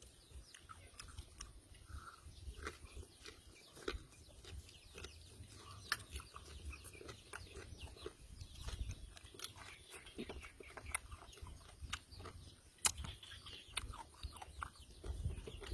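Close-up eating sounds: a man chewing raw fish and papaya salad, with many small wet mouth clicks and smacks. Two sharper smacks stand out, one about six seconds in and one near the end.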